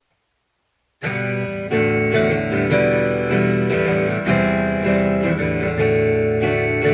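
Silence, then about a second in an acoustic guitar starts strumming chords, playing the opening of a song.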